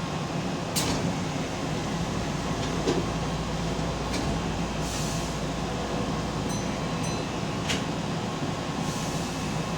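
Keihan electric commuter train running along the line: a steady low rumble with three sharp clicks a few seconds apart, and a few faint short beeps about seven seconds in.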